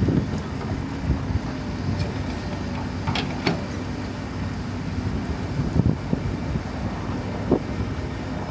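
Excavator's diesel engine running steadily, with two sharp clanks about three seconds in and a couple of lighter knocks later as it works.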